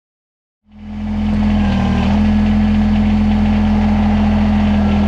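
Kubota BX1880 subcompact tractor's three-cylinder diesel engine running at a steady speed. It starts under a second in and holds an even, low drone.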